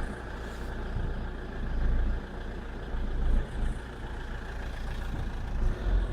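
Alfa Romeo 147 JTDm turbodiesel engine running with a strange rattling noise, which comes up when the clutch is let out slowly and the throttle is pressed and released. The low engine rumble swells in level a few times.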